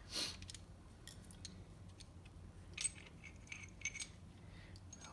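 Light clicks and clinks of small metal jet-pump parts being handled, with the sharpest click a little under three seconds in and a few more soon after. A brief hiss at the very start.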